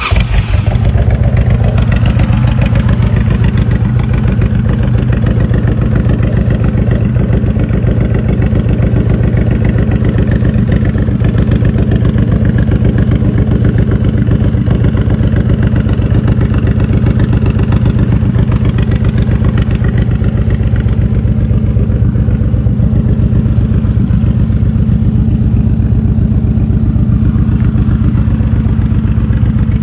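Honda VTX 1800N's 1,795 cc liquid-cooled 52-degree V-twin, fitted with a Vance and Hines exhaust, idling steadily with a loud, even low beat of firing pulses.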